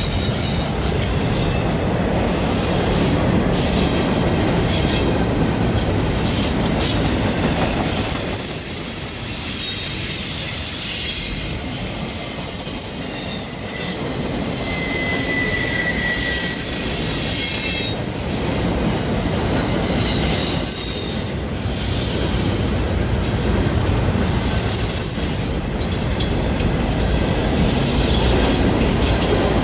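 Double-stack container well cars of a freight train rolling past on a curve: a steady low rumble and wheel clatter, with high-pitched wheel squeal that comes and goes as the wheel flanges grind against the curved rail.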